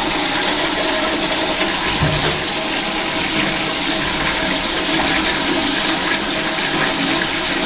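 Toilet flushing without stopping: a steady rush of water with a low, even hum running through it.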